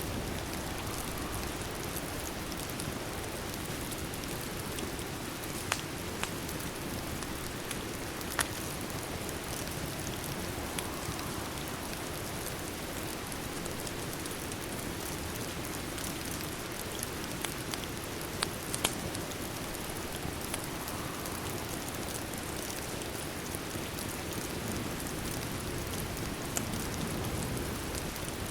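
Steady rain falling, mixed with a crackling fireplace that gives a few scattered sharp pops.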